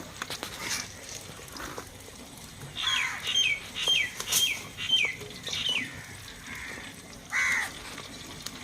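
A bird calling: a quick run of about six falling notes, then one more call a couple of seconds later.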